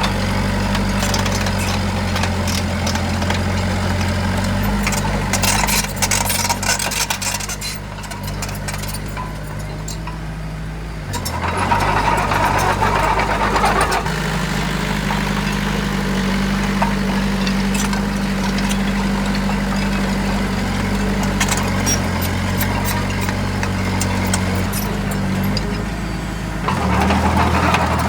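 Heavy machine's diesel engine running steadily, its pitch stepping up and down several times, with louder surges of engine noise about twelve seconds in and again near the end.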